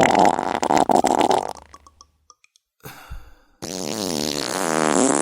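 A loud, crackling fart about a second and a half long. After a short pause comes a longer, pitched gassy noise whose pitch wavers up and down.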